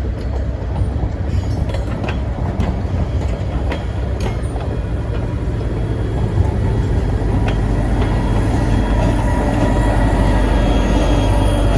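Excursion train rolling past on the Midland Railway: a steady, loud low rumble of wheels on rail, with sharp clicks over the rail joints in the first few seconds and a thin steady tone coming in and growing louder near the end.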